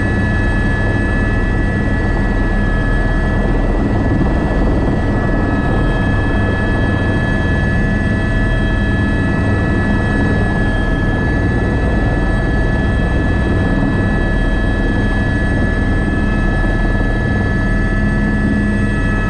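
Airbus AS350 B3 (H125) helicopter running steadily in flight, its single turboshaft and rotors giving a constant low rotor rumble under a steady high-pitched whine.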